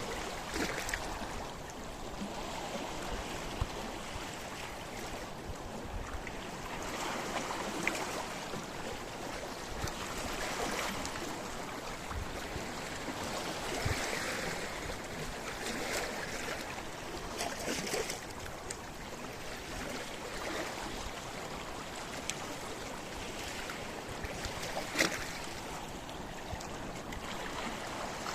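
Sea waves washing in among the rocks of a rocky shore: a steady wash of water that swells and eases every couple of seconds, with short splashes, the sharpest a few seconds before the end.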